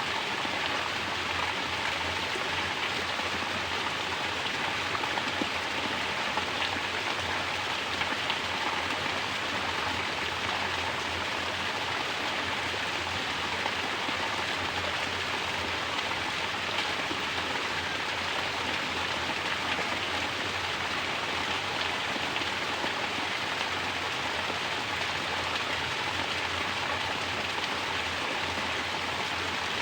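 Mountain water falling as a natural shower: a steady, even splashing patter of water on a surface, like heavy rain.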